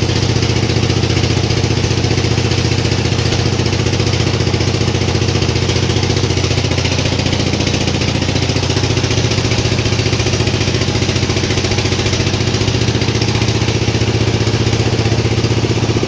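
Sawmill engine running at a steady speed.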